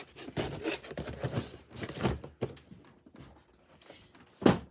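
Cardboard boxes and packaging being handled and opened: a quick run of rustling, scraping and tearing, then quieter handling, and one solid knock near the end as something is set down.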